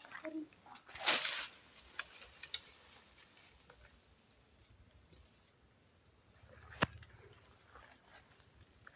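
Insects trilling in one steady, high-pitched tone, with a short burst of noise about a second in and a single sharp snap near the end.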